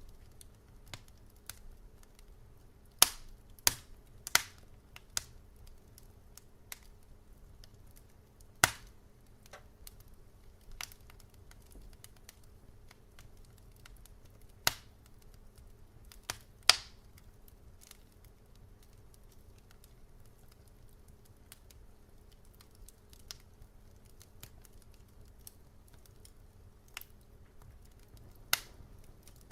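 Wood fire in a fireplace crackling: irregular sharp snaps and pops, a few loud ones and many faint, over a faint steady low hum.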